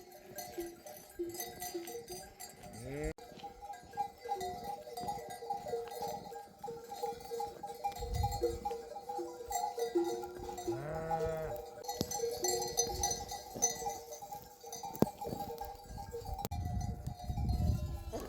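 Sheep bells clinking and ringing continuously as a flock moves, with a couple of bleats, about three seconds in and again around eleven seconds. Low rumbles come in about eight seconds in and near the end.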